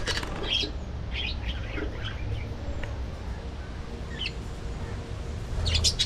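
A flock of budgerigars chirping: a few scattered short chirps, then a dense run of overlapping chirps near the end, over a low steady rumble.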